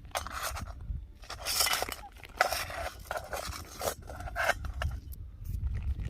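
Scraping and clinking of a cat's food dish as food is put out, in several short separate scrapes and knocks.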